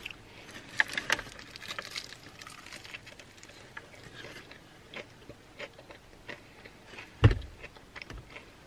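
A person biting into and chewing a KFC Zinger Pizza Double, two fried chicken fillets sandwiching cheese, pepperoni and pizza sauce, with many small clicks and crackles. A single dull thump about seven seconds in.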